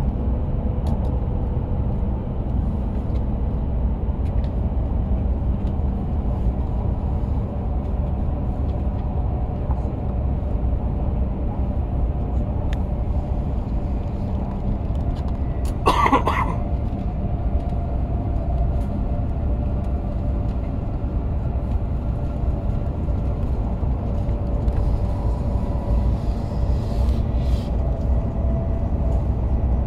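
Steady running noise of an E7-series Shinkansen heard inside the passenger cabin: a low rumble of the train at speed on the track. About halfway through there is one short, sharp sound, briefly louder than the rumble.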